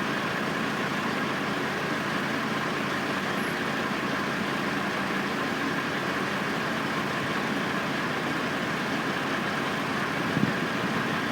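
Steady drone of construction-site machinery: an engine running without let-up, with a constant whine over it.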